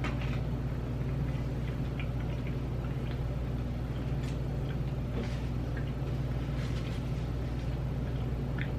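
Dill pickle potato chips being chewed, with a few faint scattered crunches, over a steady low hum.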